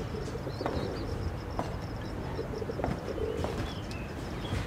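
Birds calling: short high chirps, and a low call about three seconds in, over steady room tone. A few light knocks are heard too.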